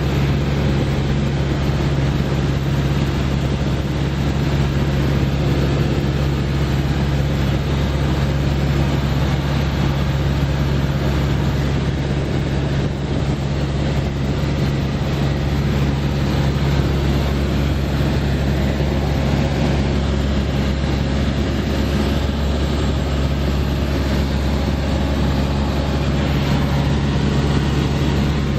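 Cessna 172S Skyhawk SP's four-cylinder Lycoming IO-360 engine and propeller running steadily in flight, a constant low drone with no change in pitch.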